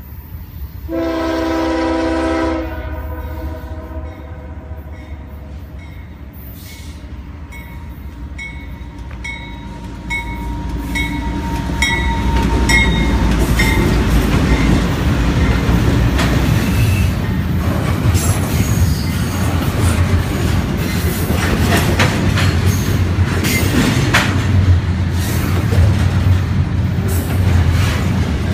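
CSX freight train: the locomotive's horn sounds one short chord blast about a second in, then the diesel locomotive grows louder as it approaches and passes. From about halfway on, the double-stack container cars rumble by with steady wheel clicks over the rail joints.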